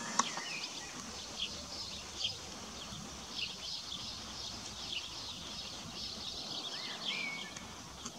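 Outdoor ambience of small birds chirping: scattered short, high calls and one brief curving whistle near the end, over a steady high hiss. A single sharp tick just after the start is the loudest moment.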